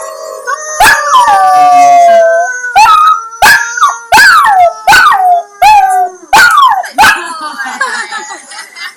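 Several canines howling together, with long overlapping howls at different pitches and a run of short, sharp yips that fall in pitch, about one every half second to second. The howling fades near the end.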